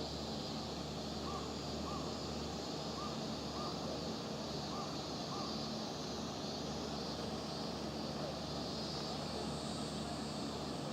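A boat's engine running steadily, a low even hum under a wash of noise. A run of about seven short high chirps is heard in the first half.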